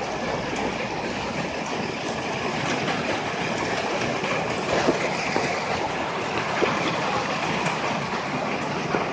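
Heavy rain pouring down steadily, with a few sharper drip impacts standing out about halfway through and near the end.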